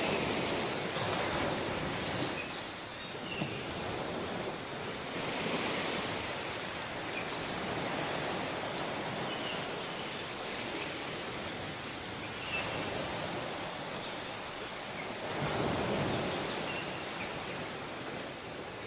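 Sea waves washing onto a tropical beach: a steady surf hiss that swells as waves come in, loudest near the start, about five and a half seconds in and about sixteen seconds in.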